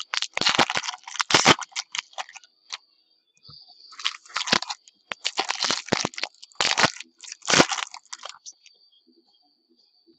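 Trading-card pack wrappers crinkling and tearing as card packs are handled and opened, in a series of irregular bursts with a quieter spell near the end.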